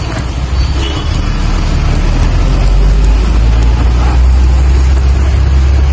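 Steady rain falling, with scattered drop ticks, over a deep rumble that swells about two seconds in and then holds.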